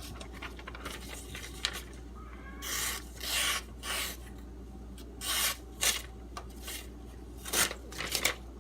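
A knife blade rubbing and scraping in several short, irregular strokes, each about half a second, starting a few seconds in.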